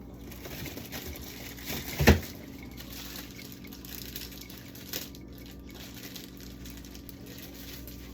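Food containers being handled and set down while clearing out a fridge: a sharp knock about two seconds in and a smaller one near five seconds, with light clatter over a steady low hum.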